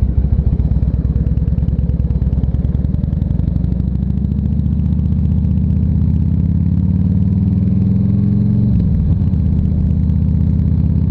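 Harley-Davidson Ultra Classic Electric Glide's V-twin engine running under way: a lumpy, pulsing beat at first that smooths into a steadier note from about four seconds in as the bike picks up speed, with a brief drop in the engine note about nine seconds in.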